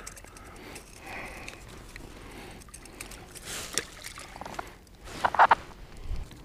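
Water splashing and trickling around a kayak as a freshly caught gar is handled, with scattered light knocks and a louder short burst about five seconds in.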